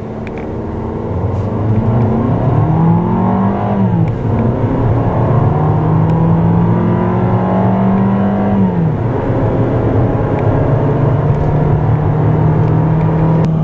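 A Fiat 500L's 1.4-litre turbocharged four-cylinder engine under full-throttle acceleration, heard from inside the cabin. Its pitch climbs, then drops at dual-clutch gear shifts about 4 seconds in and about 9 seconds in, then pulls on steadily in the next gear.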